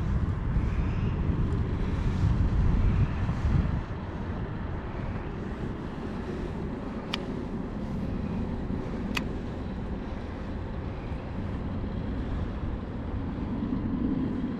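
Wind buffeting the microphone with a heavy low rumble for the first four seconds, then easing to a steady outdoor hiss of river and air. Two sharp clicks about seven and nine seconds in.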